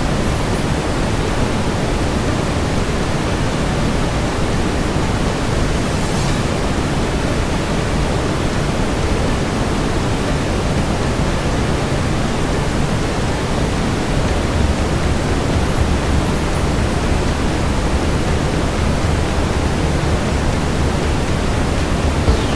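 Steady brown noise: an even, deep rushing hiss with no rhythm or change, and one faint click about six seconds in.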